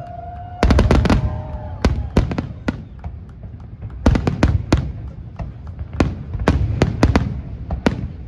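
Aerial fireworks bursting overhead: sharp bangs come in quick clusters, a volley about half a second to a second in, more around two seconds, another between four and five seconds, and again from six to eight seconds. A low rumble carries on between the bursts.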